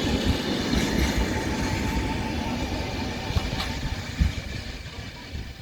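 Passenger train coaches rolling over the rails with a few low wheel knocks, the rumble fading steadily as the train pulls away.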